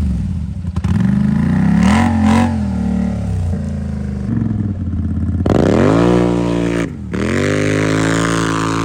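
Off-road vehicle engine running with uneven throttle, then revved hard twice in the second half, pitch climbing steeply and falling back each time.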